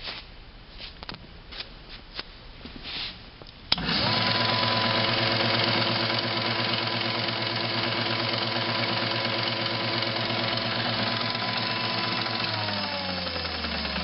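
Iida Mini Forte planer switched on with a click about four seconds in, its motor and cutterhead running at a steady hum with a whine and hiss. Near the end it is switched off and winds down, the pitch falling.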